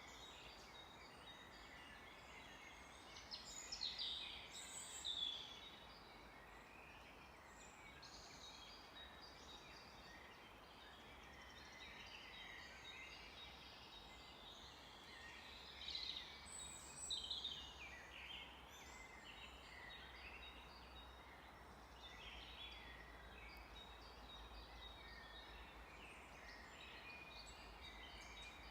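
Several forest birds singing and calling, faint over a steady background hiss, with two louder bursts of quick falling song phrases, about four seconds in and again around sixteen seconds.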